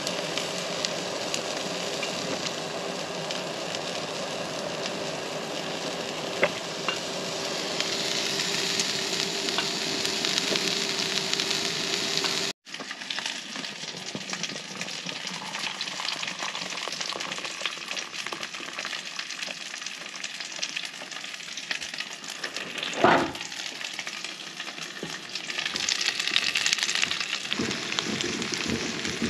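Eggs, sausages and rye bread frying in a skillet on a Coleman camp stove, with a steady sizzle. There is a brief clunk about two-thirds of the way through.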